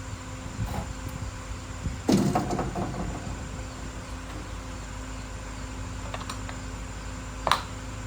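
Truck-repair work sounds: a brief clattering rattle about two seconds in and a single sharp knock near the end, over a steady mechanical hum.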